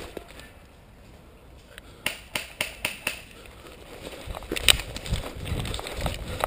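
Airsoft guns firing in the woods: a quick run of about five sharp snaps, then one louder snap a couple of seconds later, with low rustling of movement around the microphone.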